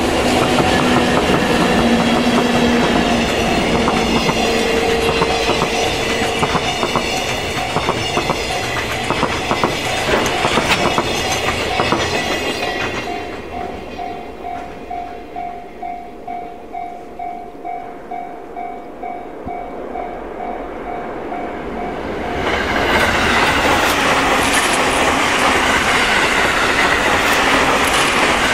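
Freight train of container wagons behind two EF64 electric locomotives rolling past, wheels clicking over the rail joints, with a level-crossing bell ringing about twice a second. The wagons clear about halfway through and the bell rings on alone, then an E257 series express train rushes past near the end.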